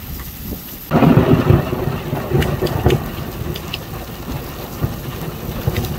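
Heavy rain pelting an asphalt road and the ground, a dense hiss of rain with the patter of single drops striking. It gets suddenly much louder about a second in.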